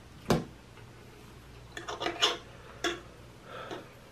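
Close-miked eating: sharp wet clicks and smacks from a mouth chewing food. There is a loud one about a third of a second in, a quick cluster about two seconds in, and another a second later.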